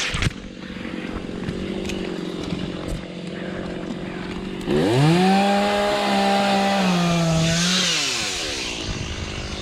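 Chainsaw running, then revved hard about halfway through: its pitch rises quickly, holds at full throttle for about three seconds with a slight dip, and drops back to a lower run.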